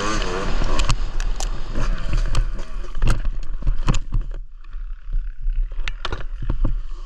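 Dirt bike engine running with a rising and falling pitch at first, over a constant low rumble of wind on the microphone, with scattered knocks and clicks. The engine sound drops away sharply about four seconds in, leaving the rumble and a few clicks.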